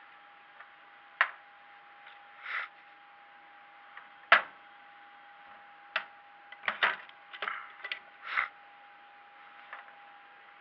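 A series of sharp clicks and knocks, irregularly spaced and bunching together in the second half, with a few short swishes, over a steady high hum.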